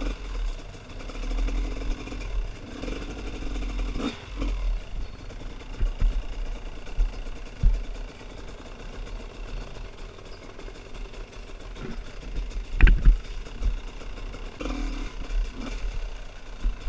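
Trail motorcycle engine running unevenly, its pitch rising and falling, with a strong low rumble and a few sharp knocks, the loudest about thirteen seconds in.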